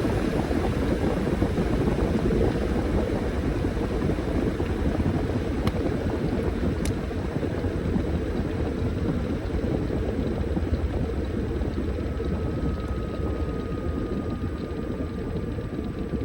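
Washing machine running mid-cycle, a steady dense drone, with a faint tone that slowly falls in pitch over the last few seconds.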